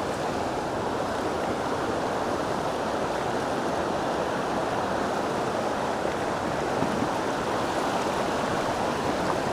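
River water rushing steadily over rocks at a ford, a constant wash of running water.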